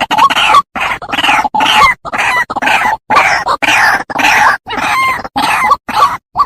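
White-breasted waterhen calls from a lure-call recording: a loud, unbroken series of harsh, rasping notes, about two a second.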